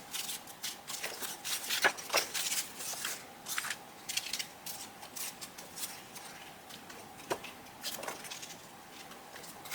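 Paper being handled and moved about on a table: irregular crisp rustles, crinkles and small taps.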